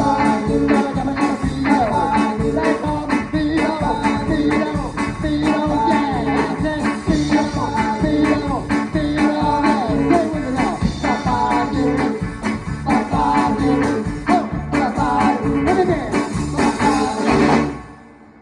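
Live rock 'n' roll band playing a song with a steady beat and a singer, ending abruptly near the end.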